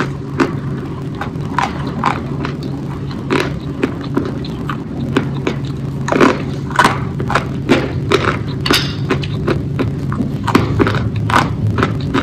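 Close-miked chewing of soft dumplings, with irregular wet mouth clicks and smacks. A low steady hum runs underneath.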